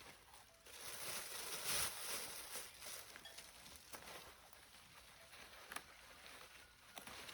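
Leafy plants rustling, with light scattered snaps and clicks, as vegetables are handled and picked by hand; loudest about one to two seconds in.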